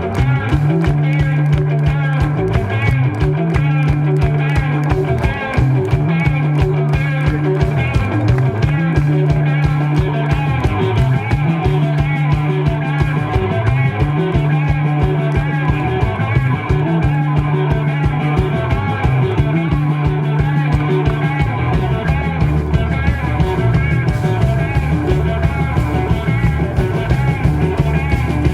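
Rock band playing live with electric guitar, bass and drums, the bass repeating a short riff; about 22 seconds in the bass line drops lower.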